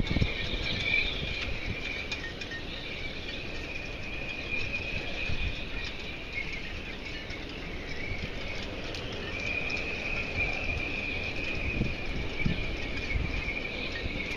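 Steady high-pitched insect chorus, with gusts of wind rumbling against the microphone.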